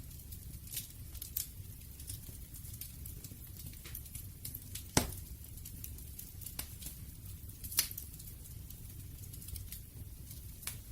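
Wood fire crackling: a steady low rumble of burning with scattered snaps, and two louder sharp pops about halfway and a few seconds later.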